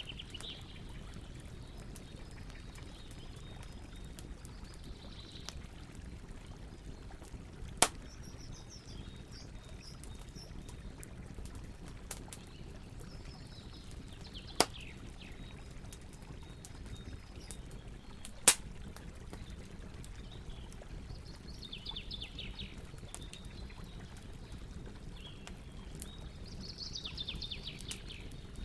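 Campfire by a flowing river: a steady rush of water with three sharp pops from the fire, and birds calling in short chirps and rapid trills, busiest near the end.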